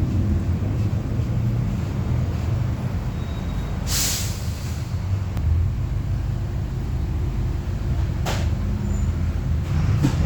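Mercedes-Benz OF-1721 city bus heard from inside while running, a steady low diesel and road rumble. About four seconds in a sharp hiss of released air lasts about a second, and a shorter hiss follows about four seconds later, typical of the bus's air brakes.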